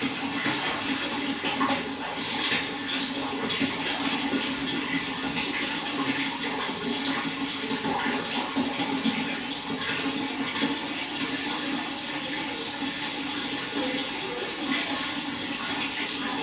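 Running water flowing and splashing steadily, a continuous rush with small splashes throughout.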